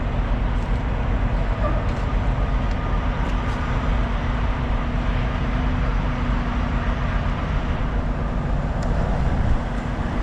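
A motor vehicle running steadily: a constant low rumble with a held hum, and a few faint clicks.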